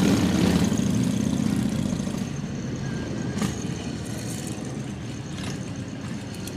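Car engine running, loudest in the first two seconds and then easing off to a steadier, quieter rumble.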